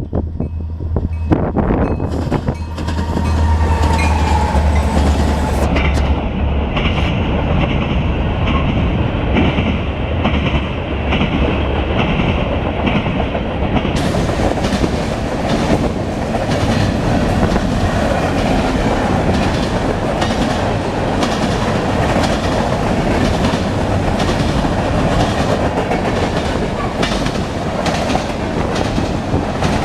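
Freight train passing: a diesel locomotive's low, steady engine hum for the first several seconds, then the cars rolling by with continuous wheel clatter on the rails.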